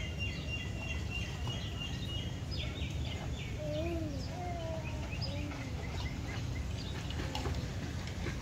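Small birds chirping and calling: a held high whistle, then a rapid run of short chirps in the first few seconds, then scattered chirps. A steady low rumble runs underneath.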